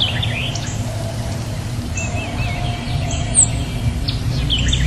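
Small songbirds chirping and calling: short high chirps and warbling notes, with one sharp high chirp about three and a half seconds in, over a steady low rumble.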